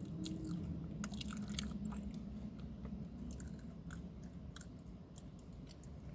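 A person chewing food, with scattered small mouth clicks and ticks throughout.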